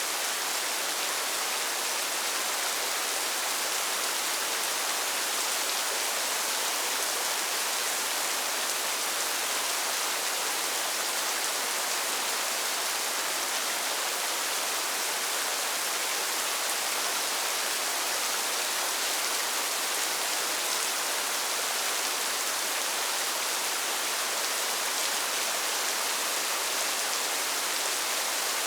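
Steady rain falling, an even hiss that does not change, with no thunder or other events.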